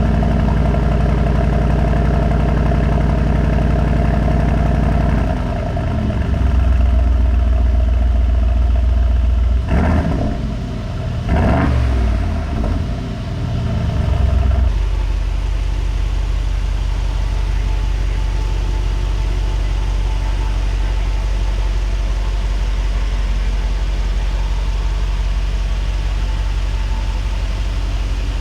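Aston Martin Vantage's twin-turbo V8 running at idle, its pitch shifting about five seconds in. Two quick throttle blips rise and fall around ten and twelve seconds in, then it settles into a steady low rumble.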